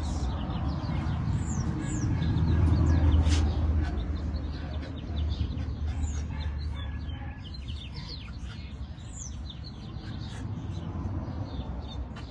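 Small birds chirping, many short high calls scattered throughout, over a low rumble that is loudest in the first few seconds and then eases.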